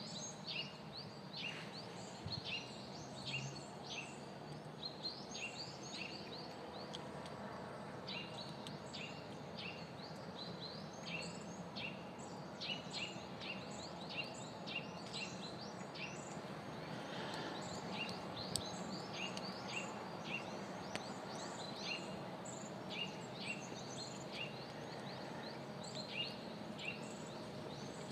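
Small birds chirping: short, high calls repeated throughout, often several in quick succession, over a faint steady hiss of outdoor background noise.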